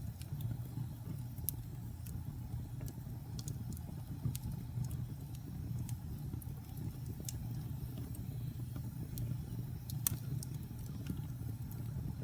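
Wood fire burning in a fireplace: a steady low rumble of flames with scattered sharp crackles and pops, the loudest pop about ten seconds in.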